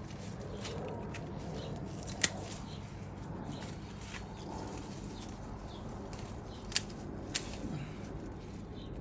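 Garden pruning shears snipping through climbing-plant stems: a few sharp snips, the loudest about two seconds in and two more close together near the end.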